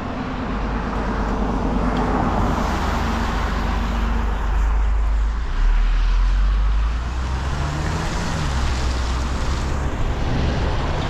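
A car passing on a wet road: engine rumble and the hiss of tyres on wet tarmac, loudest about six seconds in.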